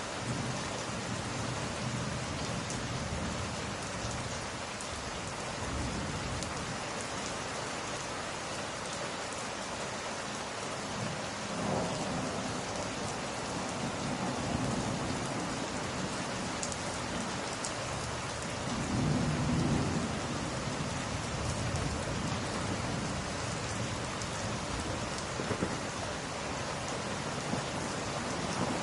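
Steady rain falling, with low thunder rumbling in the distance: one swell near the middle and a stronger one about two-thirds of the way through.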